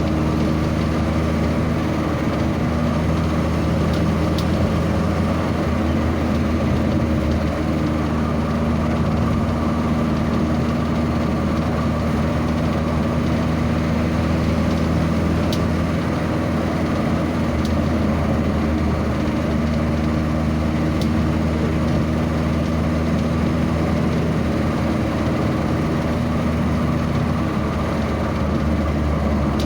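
Vehicle engine running steadily with a low, even drone, with a few faint clicks over it.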